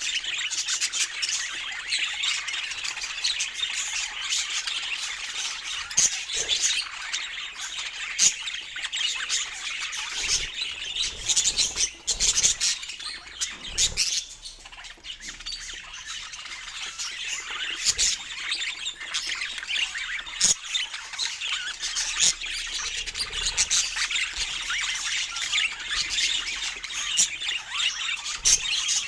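Budgerigars chattering: a dense, continuous mix of warbles, chirps and short squawks from several birds, thinning briefly about halfway through.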